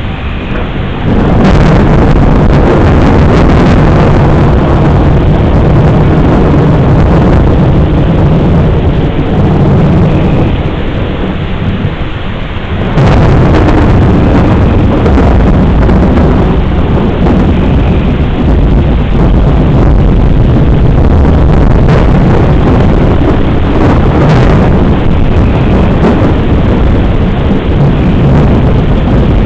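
Thunderstorm: rain under loud rolling thunder that breaks in suddenly about a second in, eases off around ten seconds, and a second loud peal crashes in about thirteen seconds in and rumbles on.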